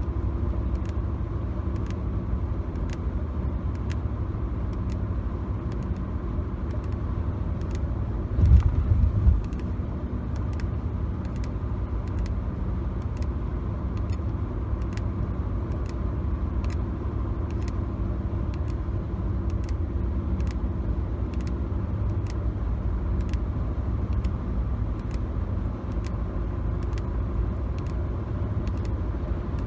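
Car cabin noise from a moving car: a steady low road and engine rumble. Light ticks come about twice a second over it, and one louder low thump comes around a third of the way in.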